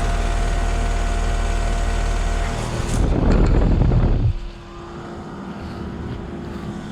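Outdoor unit of a heat pump running in heat mode: a steady hum of compressor and condenser fan with a constant tone. About three seconds in a louder rush of air noise builds for over a second, then drops away abruptly, leaving a quieter hum with a steady tone.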